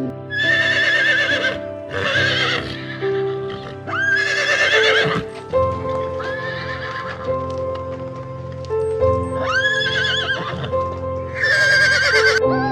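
A horse whinnying six times, each call about a second long with a wavering pitch, over background music with steady held notes.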